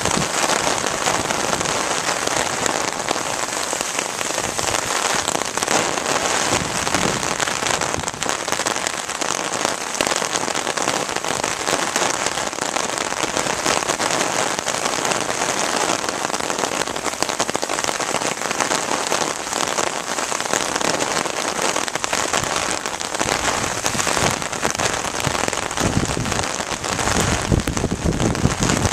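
Heavy rain falling steadily, a dense patter of drops. A low rumble comes in near the end.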